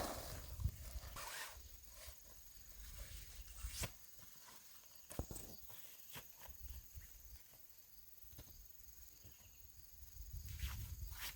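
Scattered footsteps and light knocks, quieter in the middle stretch and busier again near the end.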